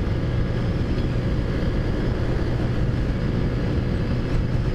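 Taotao Zummer scooter's small big-bore four-stroke engine running steadily at cruising speed, an even hum with no change in pitch.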